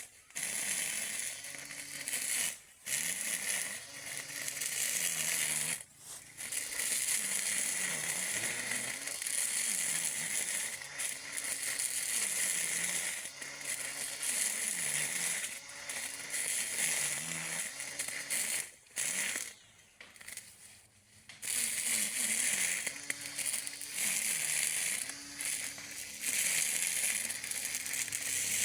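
Battery-powered cordless electric lawn mower running through grass: a motor hum that keeps sagging and recovering in pitch as it takes the load, over a hiss and crackle of grass being cut. The sound drops out briefly three times.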